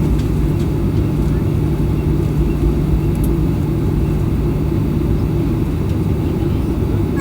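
Steady drone of a Boeing 737-800's CFM56-7B jet engines and airflow, heard inside the passenger cabin: an even low rumble with a constant low hum.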